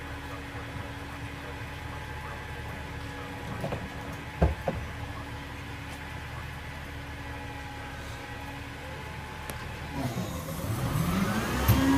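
Recycling garbage truck's engine running at a steady idle, with two sharp knocks about four and a half seconds in. Near the end the engine dips and then revs up, rising in pitch and getting louder.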